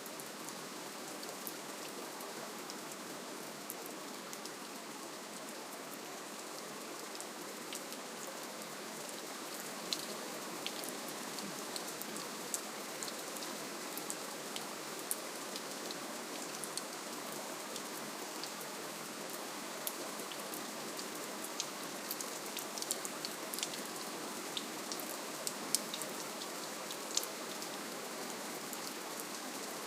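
Steady, gentle rainfall: an even hiss of rain with many small, sharp drop ticks scattered through it.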